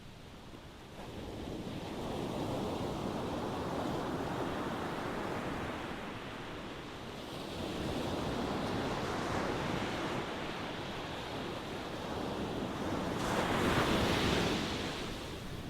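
Ocean waves surging and washing in one after another, in swelling rushes of water noise; the loudest wave breaks near the end.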